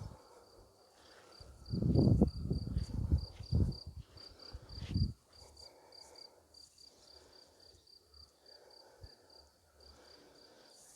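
A cricket chirping steadily, a high pulsing note about four times a second. From about one and a half seconds in, a few seconds of loud low rumbling on the microphone cover it, the loudest sound here.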